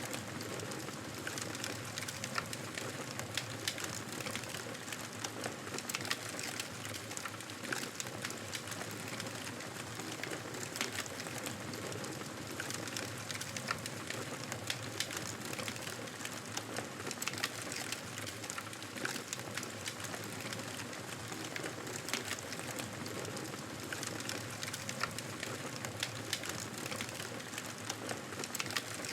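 Wood campfire burning: frequent small sharp crackles and pops over a constant hiss.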